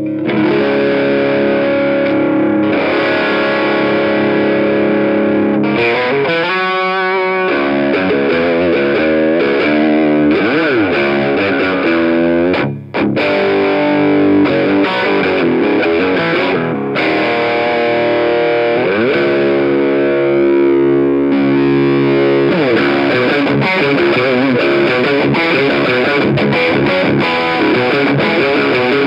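Overdriven electric guitar from a Fender Stratocaster Plus with Lace Sensor single-coil pickups, played through a Bogner Ecstasy Red overdrive pedal, an Orange Rocker 30 amp and a Marshall JCM800 2x12 cabinet. It plays sustained distorted chords and riffs, with a brief break about 13 seconds in.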